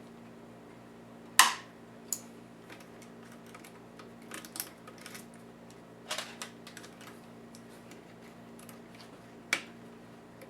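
Sharp clicks and light taps of small plastic and metal laptop parts being handled and pried apart during disassembly. The loudest click comes about a second and a half in, with another near the end and scattered lighter taps between, over a faint steady hum.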